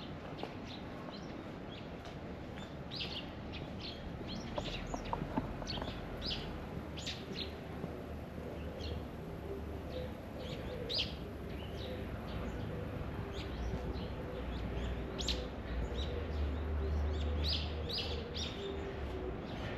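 Small birds chirping in short, repeated high calls, scattered throughout, over a low rumble that gets louder in the second half.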